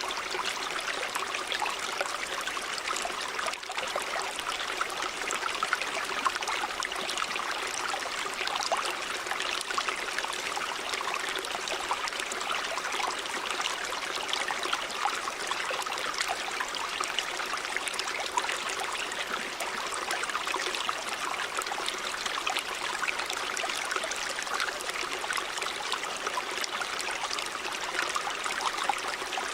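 A river or stream running steadily over rocks: continuous rushing and babbling water with many small splashes and trickles.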